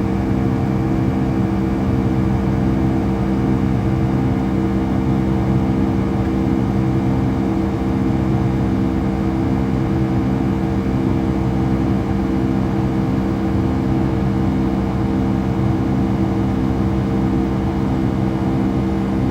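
Boeing 757-200 engine and airflow noise heard inside the passenger cabin after takeoff: a steady drone with several even hum tones running through it.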